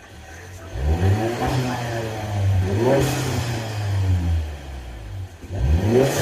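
Ford Maverick 2.0-litre EcoBoost turbocharged four-cylinder engine and exhaust revving up three times. A short turbo whoosh from the disconnected wastegate tube comes as the revs peak, about three seconds in and again at the end.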